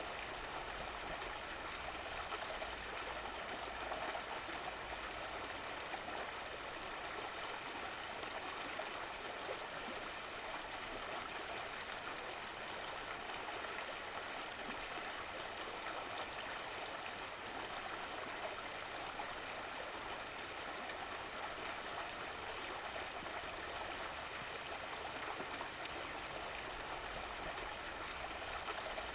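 Running water, a stream flowing and trickling steadily.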